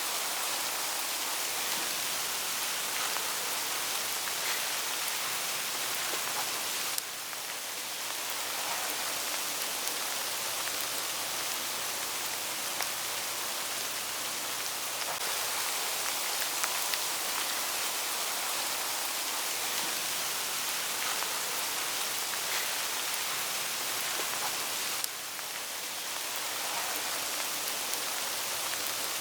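Hail pattering on autumn leaves in a forest: a steady hiss dotted with many small ticks. The level drops slightly and suddenly about seven seconds in and again near the end.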